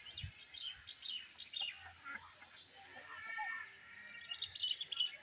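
Birds calling: a rapid string of short, high chirps, with one longer held call about three seconds in and a dense cluster of chirps near the end.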